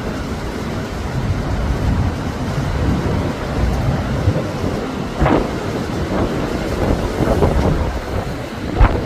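Typhoon wind blowing in heavy gusts and buffeting the microphone with a deep, uneven rumble. There are two sudden louder hits, about five seconds in and again near the end.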